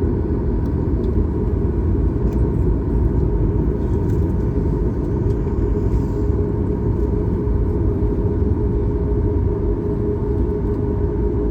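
Steady cabin noise inside a Boeing 737 MAX 8: a loud, even rumble from its CFM LEAP-1B engines and the airflow, with a steady hum running through it.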